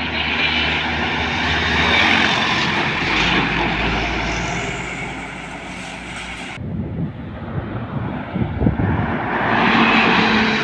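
Heavy road vehicles driving past close by, one after another. The noise swells and fades, then a second vehicle swells up near the end.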